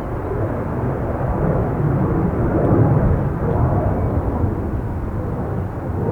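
Jet aircraft engines roaring as a plane passes, swelling to a peak about three seconds in and then easing off.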